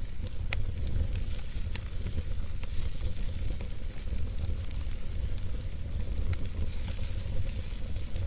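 Wood fire burning in a fireplace: a steady low rumble and hiss of the flames with scattered sharp crackles and pops from the logs.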